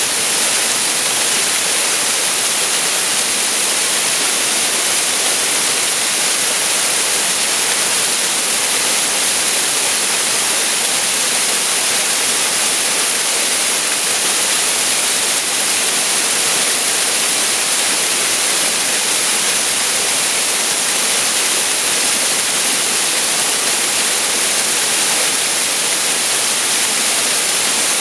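Waterfall pouring out of a cave mouth, a steady rushing hiss that is bright and even, with little low rumble.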